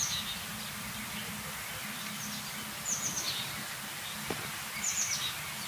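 A bird calling with short, high, falling chirps, repeated about every two seconds, over a steady low hum.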